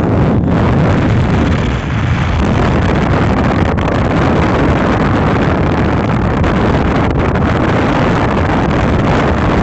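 Riding noise on a motorcycle: wind rushing over the microphone with the engine running underneath, steady and loud.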